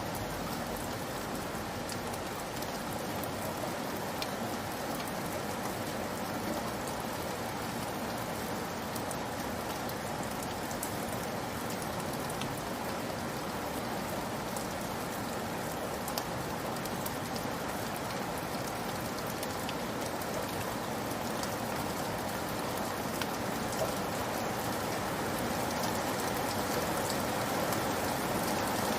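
Steady rain falling: an even hiss with scattered sharper ticks of single drops, growing a little louder near the end.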